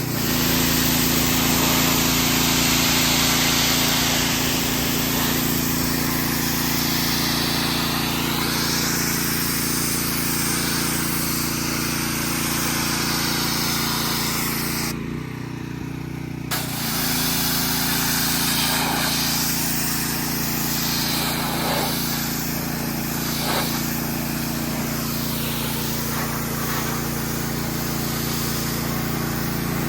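Pressure washer spraying in a steady hiss over the hum of its running motor. The spray cuts out for a moment about halfway through and then starts again.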